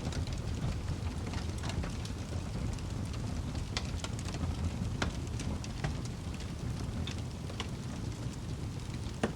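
Fireplace fire crackling: scattered sharp pops and snaps over a steady low rumble, with the loudest pop near the end.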